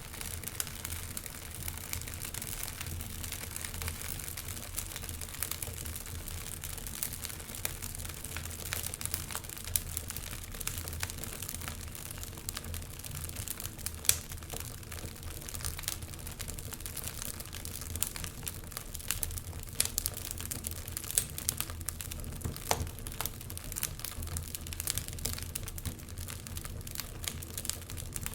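Wood fire crackling in a fireplace: continuous small pops and snaps over a low, steady rumble, with one sharper pop about halfway through.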